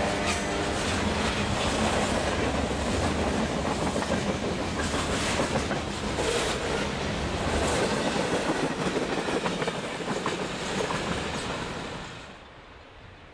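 Freight cars of a passing train rolling by close at hand, their steel wheels clacking over the rail joints. The sound drops off sharply near the end as the last car goes by.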